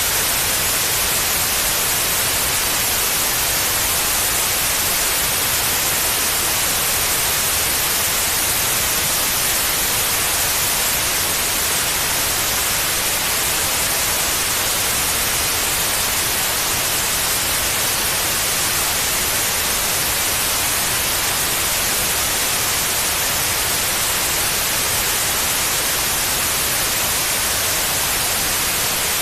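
Steady white noise, an even hiss with no changes, played as a sleep aid for babies.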